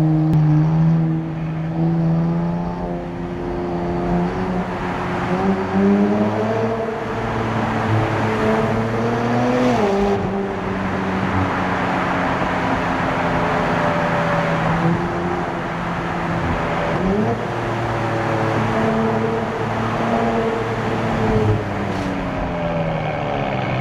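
Nissan Z Nismo's twin-turbo V6 under way, heard through its Nismo cold air intakes and track exhaust. The engine's pitch climbs slowly for about ten seconds under acceleration, drops at a gear change, then rises again, with a quick jump in revs later on.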